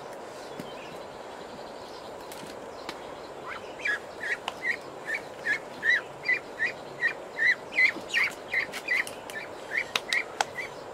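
A bird calling in a quick series of short, high chirps, about two or three a second, starting about three and a half seconds in and stopping shortly before the end, over steady background noise.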